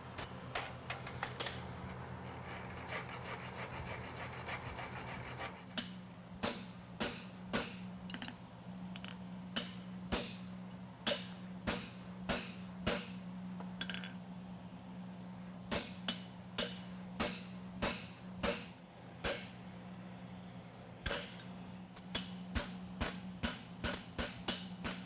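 A farrier's file rasping across a steel horseshoe in separate strokes, roughly one a second with short pauses, taking the burrs left around the punched nail holes off the inside of the shoe. A steady low hum runs underneath.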